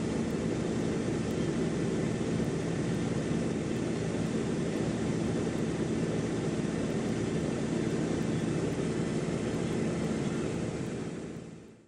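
Steady engine drone, with a constant low hum running evenly throughout, that fades out near the end.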